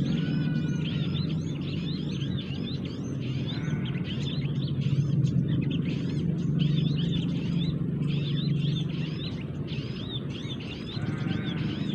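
Small forest birds chirping busily, many short high calls repeating and overlapping, over a steady low rumble.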